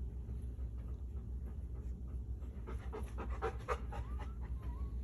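Golden retriever panting in quick breaths, loudest in a burst around the middle, over a steady low hum. A couple of faint high rising squeaks come near the end.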